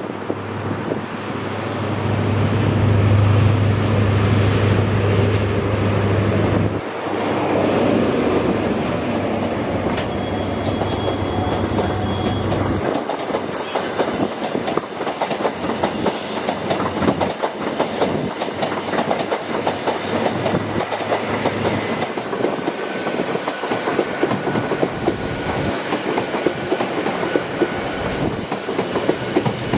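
Passenger train passing over a multi-track level crossing: a steady deep engine hum for the first dozen seconds, then a fast run of wheel clicks over the rail joints and crossing, with a brief high-pitched tone about ten seconds in.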